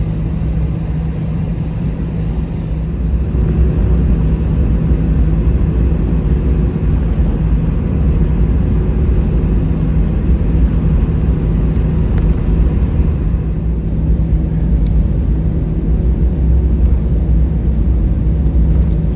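Steady low rumble and hum of an Airbus A320 cabin with its CFM56 engines running, growing slightly louder about three seconds in.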